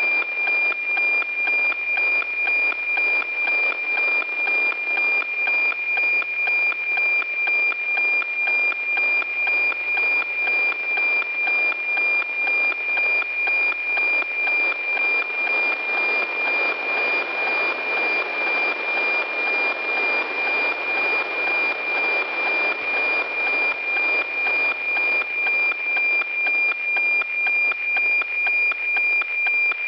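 NOAA-15 weather satellite APT signal received by radio: a steady 2400 Hz tone carrying the picture, ticking evenly about twice a second over static hiss.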